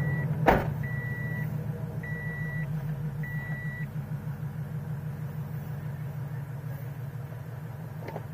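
Scion FR-S's flat-four engine idling steadily while a car warning chime beeps at an even pace, about one beep a second, stopping about four seconds in. A sharp knock about half a second in is the loudest sound.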